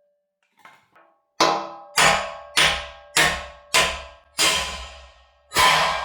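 A hammer striking steel seven times in a steady rhythm, with a longer pause before the last blow. Each blow rings on with a metallic tone, the sound of a pin being driven into a steel fitting.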